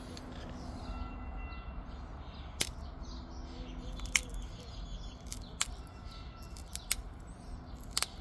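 Obsidian being pressure-flaked: about five sharp clicks, a few seconds apart, as small flakes pop off the edge of the stone.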